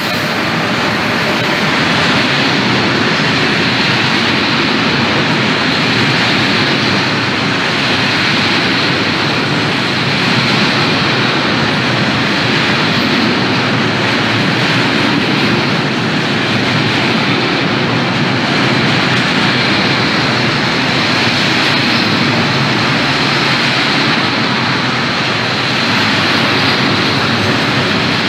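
Freight train of covered hopper wagons rolling past close by at speed: a loud, steady rushing rumble of steel wheels on the rails.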